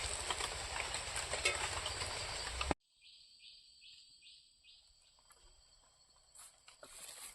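Kitchen handling noise while working the momo stuffing: scattered small clicks over a steady hiss. It cuts off abruptly a little under three seconds in, leaving near silence.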